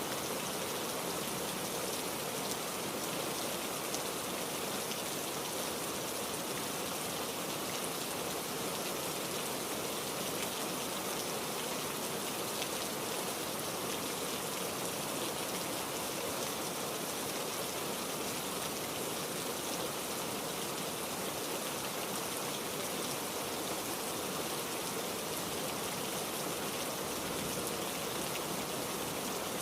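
Steady heavy rain falling, an even dense patter of raindrops with no thunder and no change in intensity.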